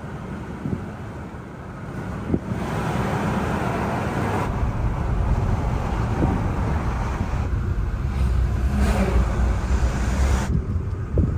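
Wind and road noise inside a moving car with the windows rolled down: a steady rush with a low rumble that grows louder a few seconds in as the car picks up speed.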